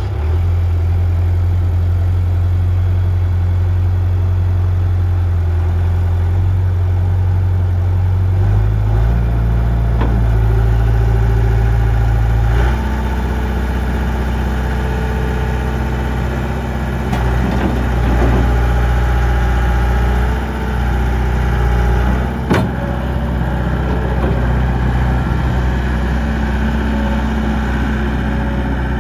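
Gehl 5635 SX skid steer's diesel engine running, its speed stepping up about eight seconds in and changing again a few seconds later, with a few short knocks along the way.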